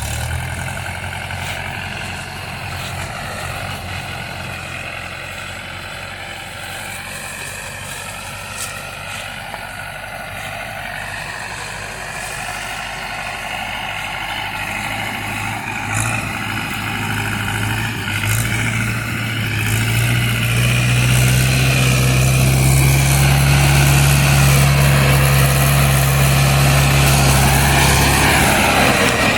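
Mahindra tractor's diesel engine running steadily, growing louder through the second half.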